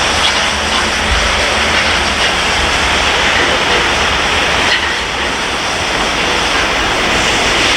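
Steady rushing noise of a train in motion, with a low rumble underneath and no distinct beats.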